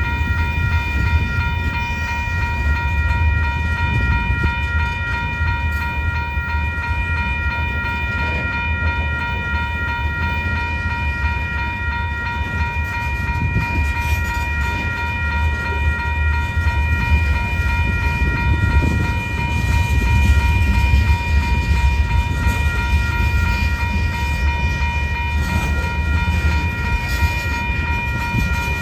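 A train rumbling past, with a steady set of high ringing tones held throughout over the low rumble.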